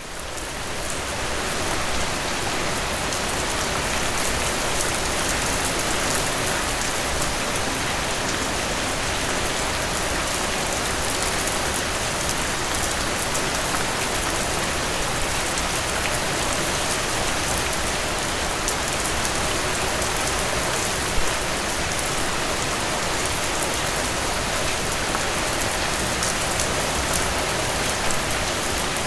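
Steady, dense rainfall with fine patter of individual drops, swelling in over the first couple of seconds and then holding even, with one slightly louder drop about two-thirds of the way through.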